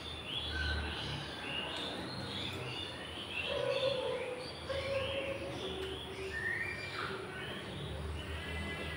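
Small birds chirping: many short, falling chirps, several a second, with a few lower held tones among them.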